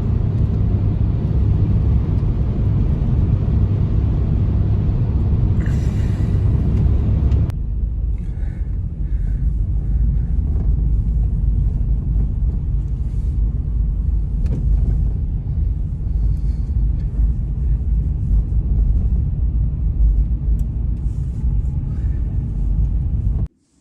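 Strong blizzard wind rumbling and buffeting the microphone, with a sudden change about seven seconds in. Faint clicks and rustles sound over the wind after the change, and it cuts off abruptly near the end.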